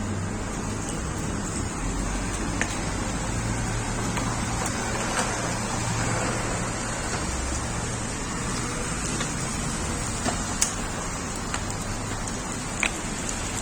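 Steady vehicle and wind rumble with a low hum and a few faint clicks.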